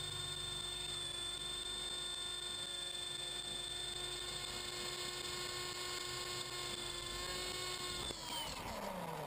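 Electric motor and rotor whine of an MJX F45 RC helicopter, heard from a camera mounted on the helicopter, holding a steady pitch; about eight seconds in the whine falls in pitch as the rotors spin down.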